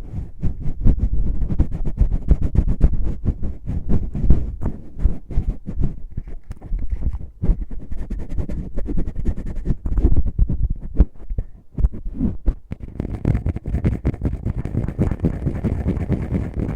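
Fingers rubbing and poking in an ASMR microphone's ear, a dense run of quick, muffled rustling strokes and soft thumps that turn scratchier near the end.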